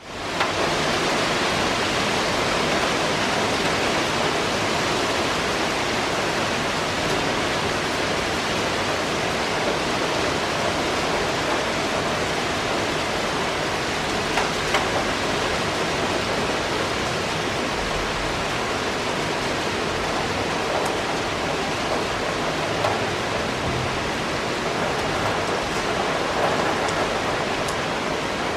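Heavy downpour of rain falling steadily as a dense, even hiss, fading in over the first half second.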